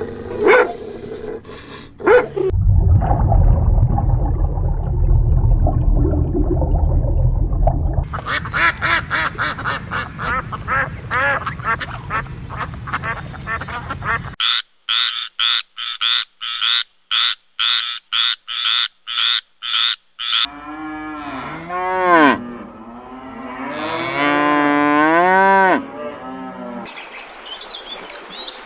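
A series of different farm animal calls, one after another: a long low cow moo, then fast repeated calls, then a string of evenly spaced sharp calls about two a second, and near the end several wavering pitched calls.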